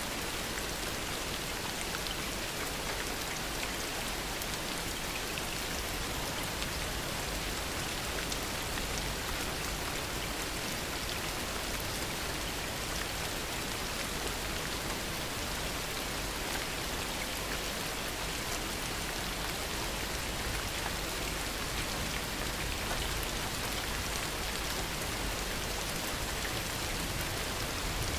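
Heavy rain falling steadily, a dense even hiss of drops striking surfaces with fine ticks of individual drops through it.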